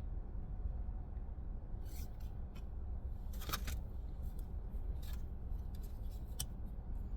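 Tarot cards being handled and shuffled: several short papery snaps and slides, over a steady low hum.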